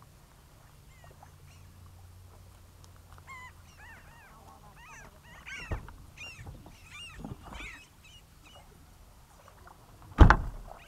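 Birds calling in a flurry of short, bending cries through the middle of the stretch, over a faint low background rumble. About ten seconds in, a single sudden loud thump cuts across everything.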